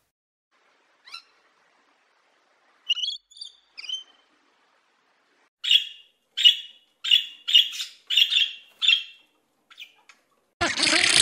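Budgerigar chirping: a run of about six short, sharp chirps, one every half second or so, after a few scattered calls. A loud rush of noise cuts in near the end.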